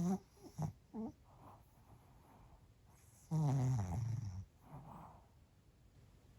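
Pomeranian snoring in its sleep: one long, pitched snore of just over a second about three seconds in, falling in pitch, after a couple of short, fainter snorts near the start.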